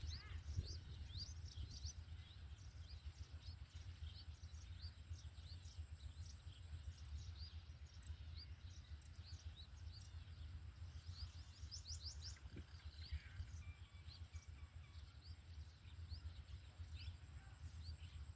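Small birds chirping in the background, many short high calls of a few kHz, several a second, over a low steady rumble and a faint steady high whine.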